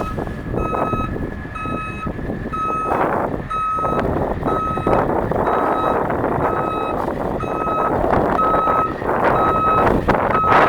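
A vehicle reversing alarm beeping steadily, about one beep every three-quarters of a second, over the low running of the bus's International T444E diesel engine and gusts of wind on the microphone.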